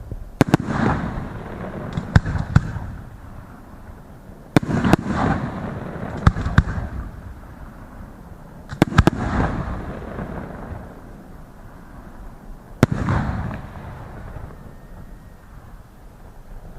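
Fireworks display: shells bursting in sharp bangs, in clusters every few seconds, each followed by a rolling echo that dies away. The last burst comes about three-quarters of the way through, and only a quieter rumble follows it.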